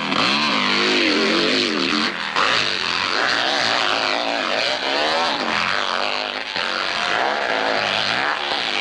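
Hillclimb motorcycle engine revving hard on the climb, its pitch surging up and falling back again and again.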